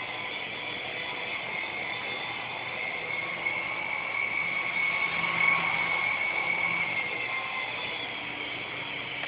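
Syma S107G micro coaxial RC helicopter's small electric motors and rotors whining steadily in flight. The pitch wavers slightly as the throttle changes, and it gets a little louder about five seconds in.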